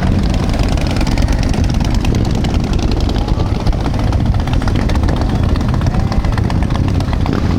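Motorcycle engines running, a loud, steady, throbbing exhaust rumble.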